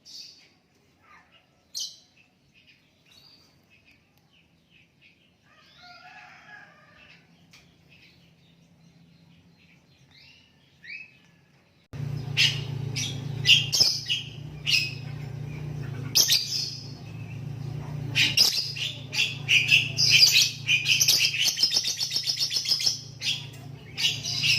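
Lovebird calling: scattered short, high chirps at first, then about halfway in a loud, dense run of rapid chirps that builds into a long, fast chattering trill. A steady low hum starts along with the loud part.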